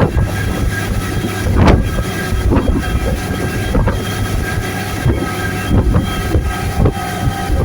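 Motorboat engine running steadily at speed, with a continuous low hum and wind and water noise. Sharp knocks come every second or so.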